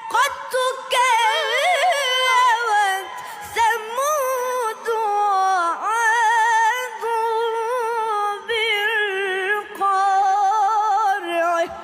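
A single voice chanting Quran recitation in a melodic style, holding long notes with wavering ornamented turns, with short breaks for breath every few seconds.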